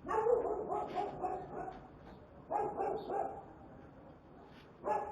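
A dog barking in three bursts of several quick barks each.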